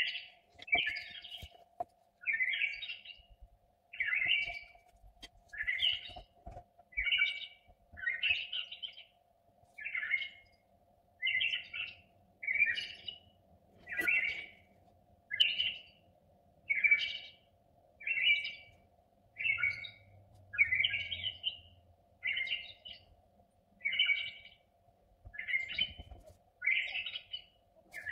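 A bird chirping over and over, one short, similar phrase roughly every second and a half, over a faint steady hum.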